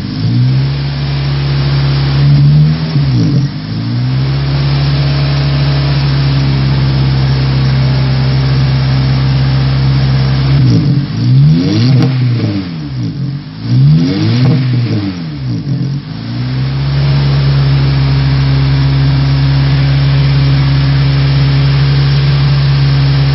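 Honda K20A2 2.0-litre four-cylinder engine in a CR-X, heard through its exhaust, held at a steady raised rpm for several seconds at a time. Near the middle it is blipped up and down several times in quick succession before settling back to a steady hold.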